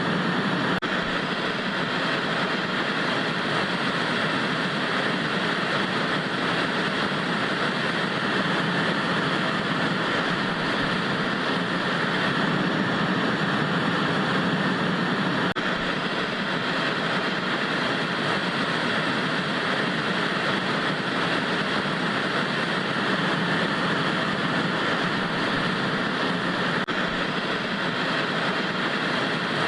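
Steady hiss of analog TV static: constant, even noise with no breaks or changes.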